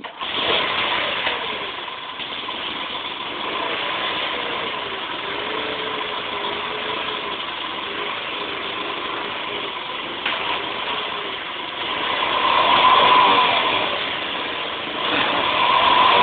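Honda CT110 Postie bike's single-cylinder four-stroke engine starting and running, its idle pitch wavering. It is revved up about twelve seconds in, drops back, then revs up again near the end.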